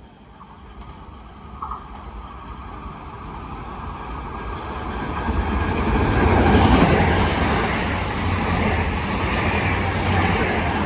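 A train approaching and passing through a station: its rumble and rail noise grow steadily louder, reach their loudest about six to seven seconds in and stay loud as it goes by.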